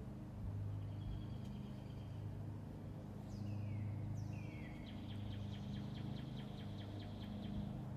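A songbird singing: two downward-slurred whistles followed by a rapid trill of about five or six notes a second. A steady low hum runs underneath.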